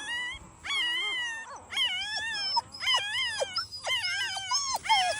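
Dog whining: a run of short, high-pitched, wavering cries, about one a second, some of them overlapping.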